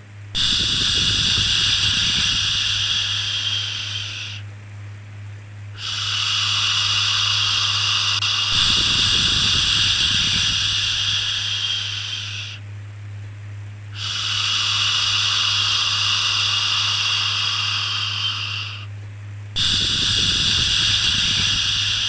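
Long drawn-out 'shhh' shushing sounds for soothing a baby, repeated four times, each a few seconds long with brief dips between, over a steady low hum.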